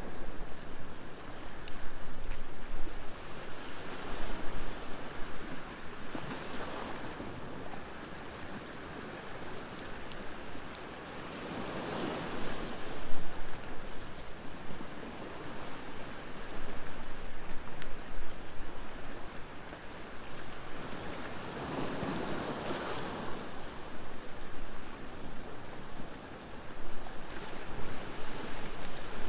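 Ocean surf washing ashore in slow swells, the biggest about twelve and twenty-two seconds in, with faint scattered pops from a crackling wood bonfire.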